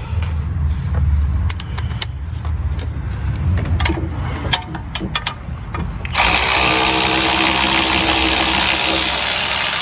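A few metal clicks as a deep socket goes onto the bolt, then about six seconds in a cordless electric ratchet whirs steadily for about four seconds, turning out a 15 mm brake caliper bracket bolt.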